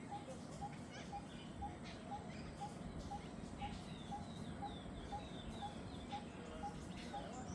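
Jungle bird ambience: a short note repeats about twice a second over a low hiss, with a run of high, falling chirps from other birds about halfway through.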